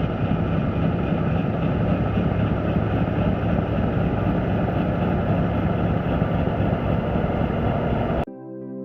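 Kioti DK55 diesel tractor running steadily under load, driving a three-point-hitch snowblower off its PTO, now set to 1000 rpm so the blower works properly. Cuts off suddenly near the end, replaced by soft synthesizer music.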